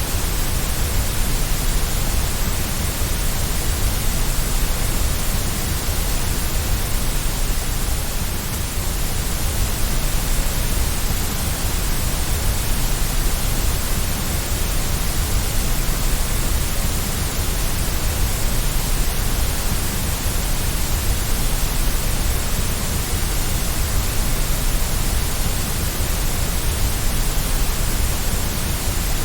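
Steady white noise for soothing a baby to sleep: an even, unbroken hiss with a strong low rumble underneath.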